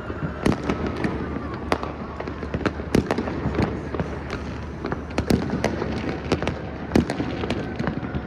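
Many fireworks going off at once: sharp bangs at irregular intervals, often several a second, over a continuous rumble of overlapping bursts.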